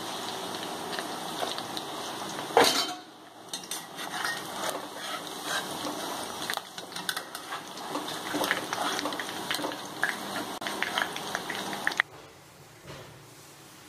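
Chicken pieces sizzling in hot oil in a black kadai, with a metal spoon clinking and scraping against the pan as the pieces are lifted out; one sharp knock about two and a half seconds in. The sizzling cuts off suddenly near the end, leaving a faint hush.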